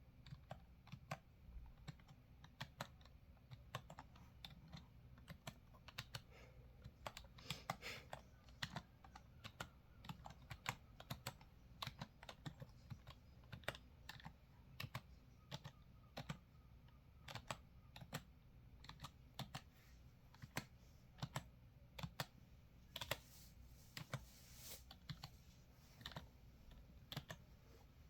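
Computer keyboard being typed on: quiet, irregular key clicks at a steady typing pace, with a brief brighter clatter a little past the middle.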